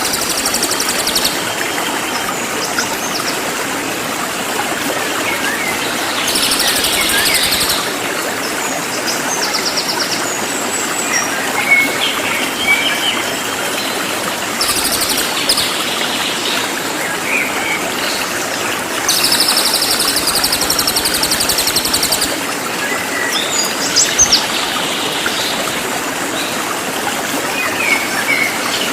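A cililin songbird giving loud, fast rattling trills in bursts every several seconds, with short chirps in between, over the steady sound of running stream water.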